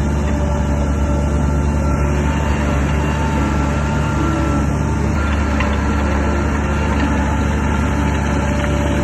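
Heavy diesel engine of a crawler bulldozer running steadily: a constant low drone with a few thin, steady higher tones over it.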